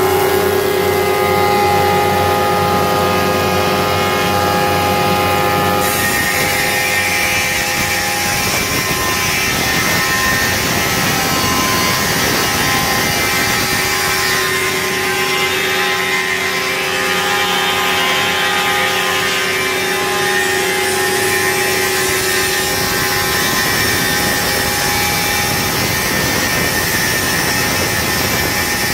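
Woodworking machinery calibrating and ripping dry boards into square bars, running steadily with a continuous whine and hum. The tone changes abruptly about six seconds in.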